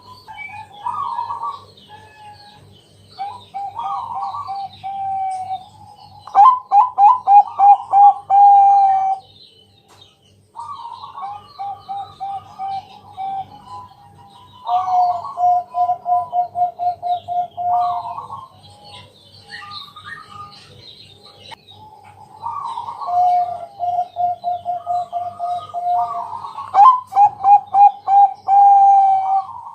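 Zebra dove (perkutut) cooing song: about six phrases, each a rapid run of short repeated coos, with pauses between. Smaller birds chirp faintly in the background.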